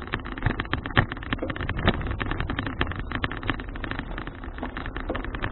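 Folding bicycle in motion: many rapid, irregular clicks and rattles over a steady low rumble of wind and road noise.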